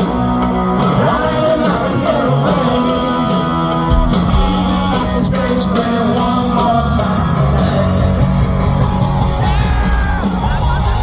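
Live rock band playing at full volume, with electric guitars, bass and drums and a lead vocal sung over them, recorded from the audience.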